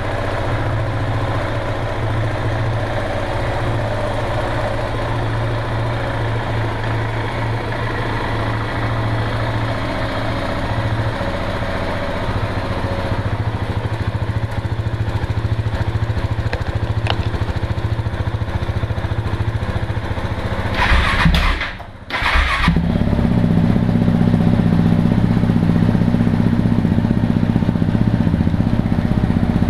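KTM 690 single-cylinder engine idling steadily through its exhaust. About two-thirds of the way in there is a brief louder burst and a short drop-out, after which the idle carries on with a deeper, fuller note.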